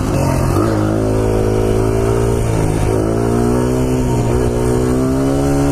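Honda XR100's single-cylinder four-stroke engine running on the throttle while being ridden, its revs holding fairly steady. The revs dip briefly twice and pick back up.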